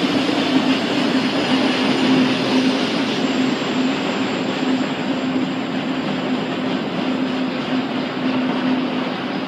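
Double-stack intermodal freight cars rolling past on steel rails: a steady, even rumble of wheels on track with a low hum that pulses.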